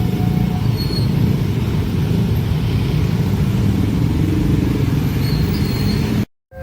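Train passing through a level crossing with a loud, steady rumble of wheels on rails. The crossing alarm's two alternating tones sound faintly at the start. The sound cuts off abruptly near the end.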